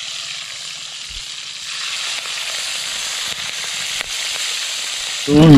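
Fish and tiger prawns frying in hot oil in a wok, a steady sizzle that grows a little louder about two seconds in.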